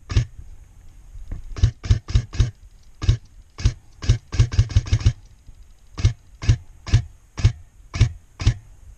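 Airsoft gun firing about twenty single shots, some in quick strings of four or five and then a steadier run of about two shots a second.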